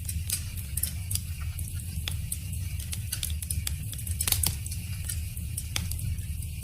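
Wood fire crackling: irregular sharp pops and snaps over a steady low rumble, with the loudest pop a little after four seconds in.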